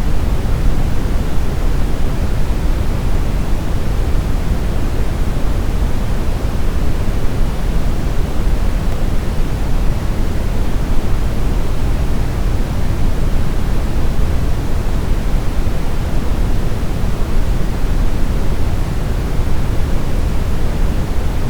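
Steady synthetic brown noise: an even, unchanging hiss weighted toward deep rumbling lows and falling away in the highs, with no events or changes.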